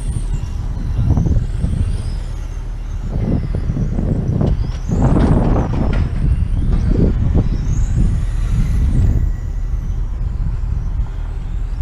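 Motorcycle engines running and revving, their pitch rising and falling several times over a heavy low rumble.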